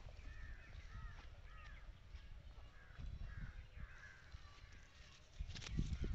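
Birds calling outdoors in short, repeated arched notes over a low rumble. Near the end there is a louder rustle and bump.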